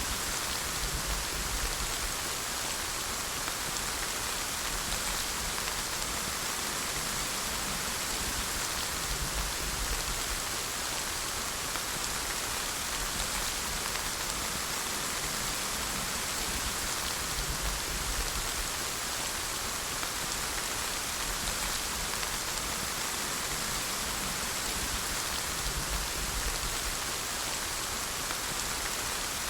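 Steady rainfall, a continuous even hiss of drops falling on a surface.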